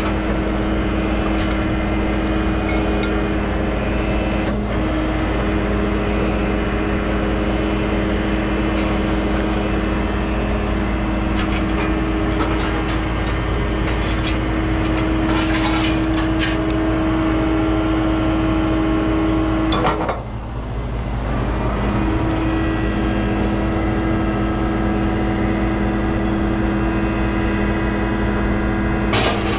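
Heavy tow truck's engine running steadily at an even, raised speed. About twenty seconds in there is a knock, the steady hum breaks off for a couple of seconds and then resumes, and a sharp click comes near the end.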